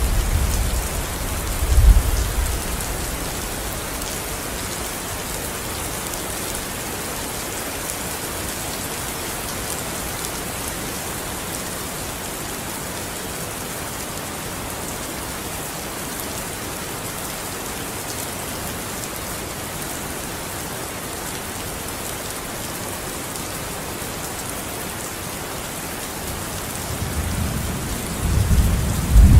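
Steady rain falling, an even hiss. A deep rumble of thunder dies away in the first few seconds, and another roll of thunder builds near the end.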